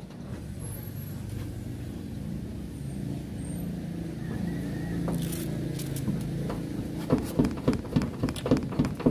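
A motor vehicle's engine running steadily nearby as a low hum that swells slightly. About seven seconds in, a quick run of sharp taps, about three a second, on the corrugated metal roof sheeting, where flashing tape patches are being pressed down by hand.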